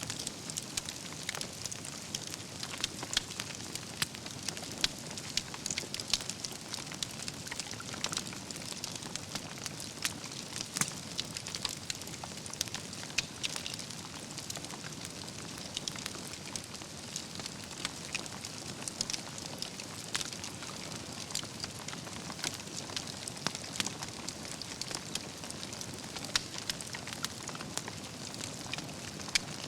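Wood fire burning steadily, with a constant soft hiss and frequent sharp crackles and pops from the logs at irregular intervals.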